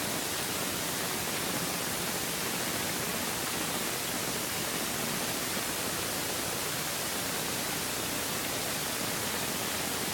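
Steady, even hiss like static, with no distinct bangs or other events.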